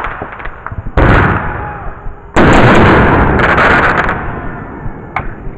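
Aerial fireworks bursting: a loud boom about a second in and a louder one about two and a half seconds in, each fading slowly, with a few sharp crackles.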